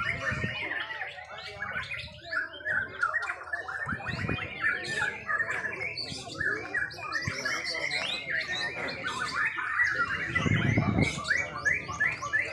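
Several caged white-rumped shamas (murai batu) singing at once, a dense, unbroken mix of overlapping rapid whistles and chirps.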